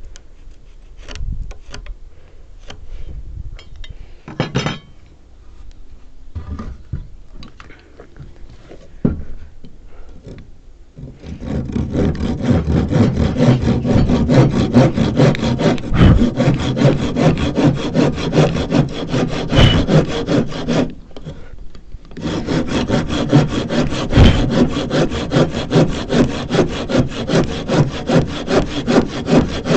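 Handsaw (rabo de zorro) cutting through wood with steady back-and-forth strokes, starting about a third of the way in after some scattered knocks and handling of the timber, with a short pause near two-thirds of the way before the sawing resumes.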